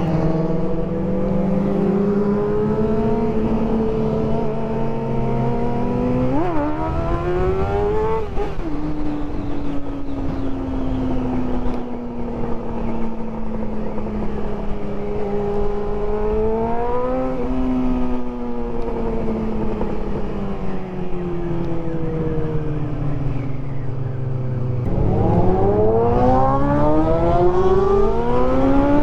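Motorcycle engine (a Honda CBR600F's inline-four), ridden under way over wind noise. It revs up in pitch about a quarter of the way in and briefly again about halfway, easing off slowly in between, then climbs hard in pitch near the end under acceleration.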